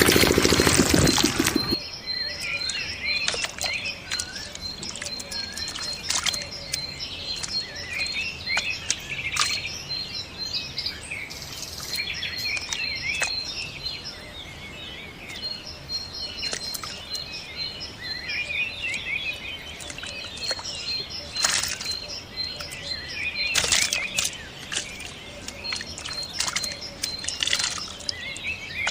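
Birds chirping and calling, with a repeated run of rapid high-pitched pips and occasional sharp clicks. A loud engine, most likely the small diesel water pump's, runs at the start and cuts off abruptly about a second and a half in.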